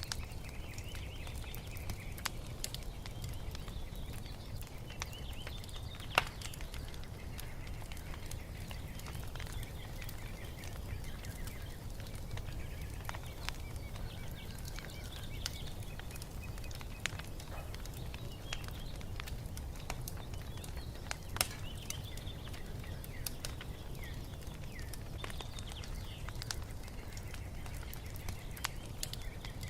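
Wood fire crackling, with scattered sharp pops, two much louder ones about 6 and 21 seconds in, over a steady low rumble, while small birds chirp and sing.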